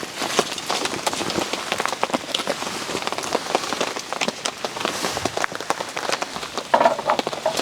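Rain falling steadily, with many close, irregular drops pattering on leaves or another surface nearby.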